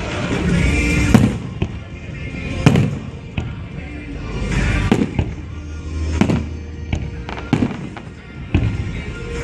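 Aerial firework shells bursting, about six booms at irregular intervals of one to two seconds.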